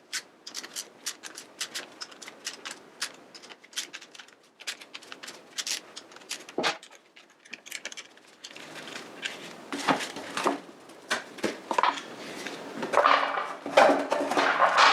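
Hand work with tools and metal parts: a run of short sharp clicks and knocks, becoming busier and louder with scraping in the last few seconds.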